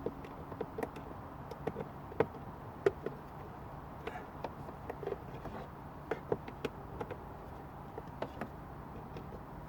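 Irregular clicks, taps and knocks of plastic dashboard trim and screws being handled and worked loose, with two louder knocks about two and three seconds in.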